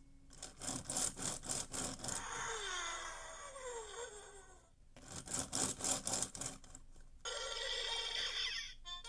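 VTech Go! Go! Smart Wheels race car toy playing electronic sound effects: a fast clattering rattle, a run of falling whistle-like tones, a second rattle, then a ringing bell-like tone for about a second and a half near the end.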